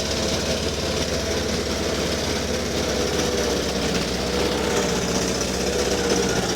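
GAZ-69A's four-cylinder engine running steadily as the vehicle drives, with a steady whine above the engine note.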